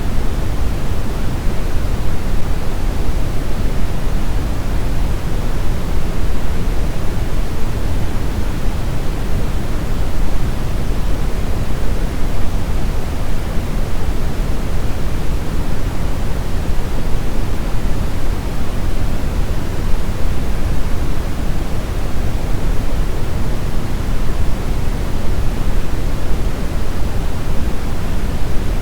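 Steady, unchanging brown noise: a continuous deep rumbling hiss, strongest in the bass and fading toward the treble, with no events or changes.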